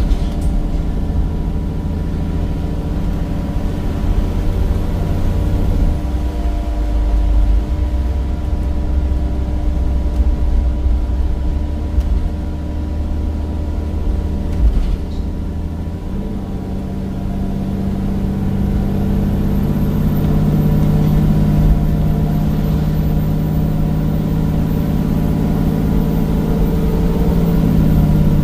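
Bus's Cummins diesel engine running steadily under way. About halfway through its note shifts from a deep rumble to a stronger, higher drone and gets gradually louder as it pulls harder.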